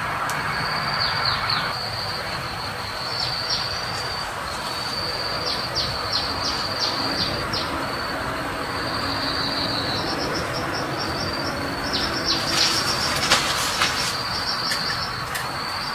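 Forest insects droning at a steady high pitch in long stretches that stop and start again, with short falling chirps over it, above a steady rushing background. A run of sharp clicks comes about twelve to fourteen seconds in.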